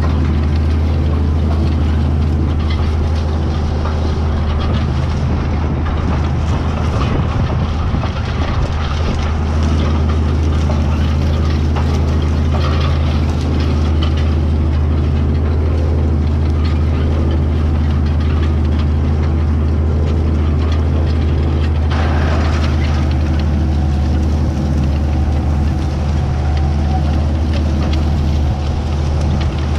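White 2-150 tractor's diesel engine running steadily as a constant low drone, with a short burst of higher-pitched clatter about two-thirds of the way through.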